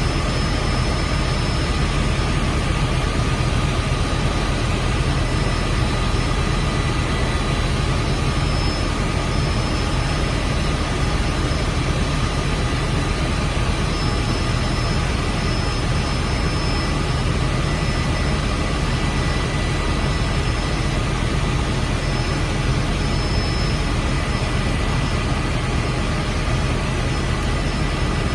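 Helicopter running steadily in flight: a constant engine and rotor roar with a thin, steady high turbine whine over it.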